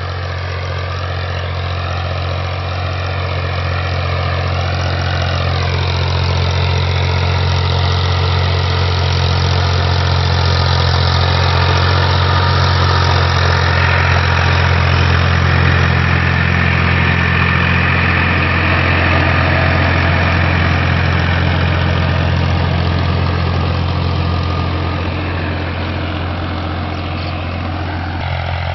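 Tractor engine running steadily with a deep low hum. It grows louder toward the middle and eases off near the end.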